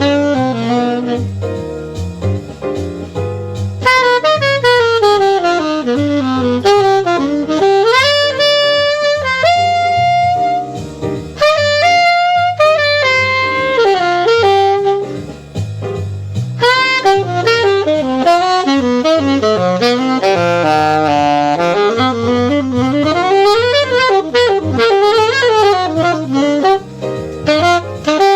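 Saxophone playing a jazz solo: fast rising and falling runs broken by a few held notes, over a steady bass line beneath.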